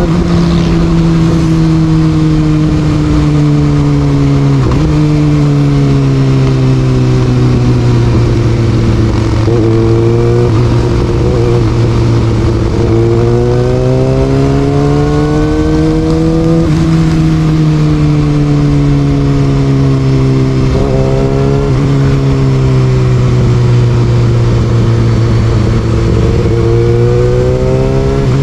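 Kawasaki Ninja ZX6R's inline-four engine breathing through an Austin Racing aftermarket exhaust while being ridden, its revs climbing and falling smoothly through the gears. Sharp drops in revs come every few seconds as it shifts or rolls off the throttle, over steady road and wind noise.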